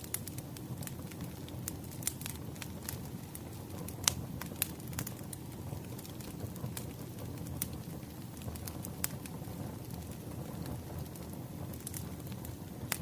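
Wood fire crackling steadily, with a low rumble of flame and irregular sharp pops and snaps of burning firewood.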